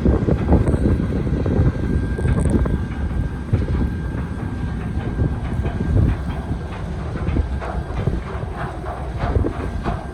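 Strong wind buffeting the microphone as a loud, gusting low rumble, with a faint steady high tone under it.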